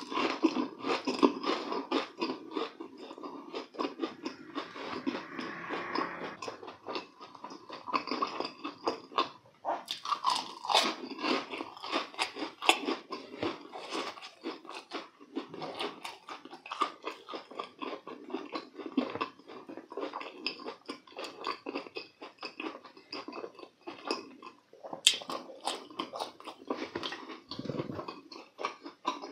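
A person chewing bread-crumbed deep-fried croquettes close to the microphone: steady chewing with many small, irregular crunches of the fried crust.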